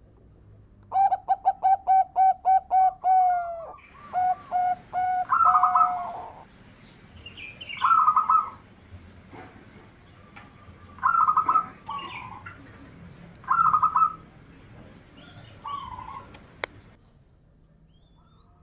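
Zebra dove (perkutut) cooing. It opens with a quick run of evenly spaced notes. Separate coo phrases follow every two and a half to three seconds.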